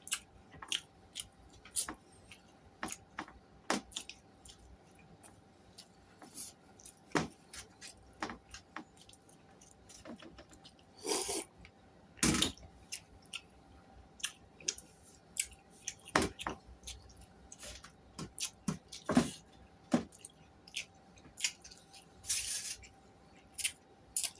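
Close-up sounds of a person eating: chewing, with many short lip smacks and mouth clicks. A few louder, longer noisy rustles or clatters come around the middle and near the end.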